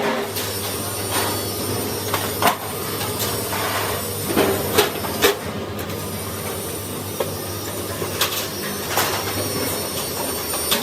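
Steel-fabrication factory machinery running with a steady hum, with irregular sharp metallic knocks and clanks, several coming in quick succession around the middle.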